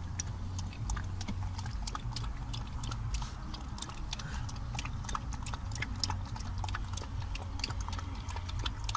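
Dalmatian puppy lapping goat milk: many quick, irregular wet clicks over a steady low rumble.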